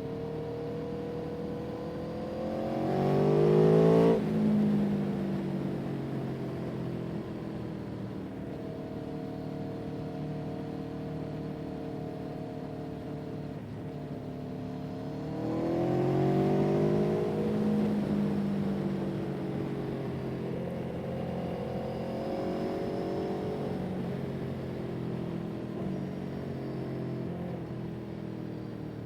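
A vehicle engine running steadily, heard from on board. About three seconds in it speeds up with its pitch rising, then drops sharply at a gear change. It picks up again about sixteen seconds in and gradually eases back.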